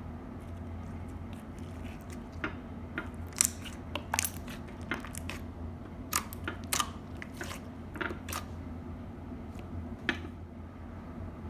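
Slime being squeezed and worked by hand, giving irregular crunchy crackles and pops over a steady low hum; the crackles start a couple of seconds in and thin out near the end.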